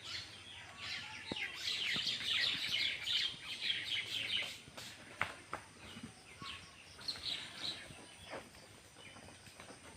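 Nestling birds chirping in the nest: a dense run of rapid high chirps in the first half, thinning to scattered chirps in the second half.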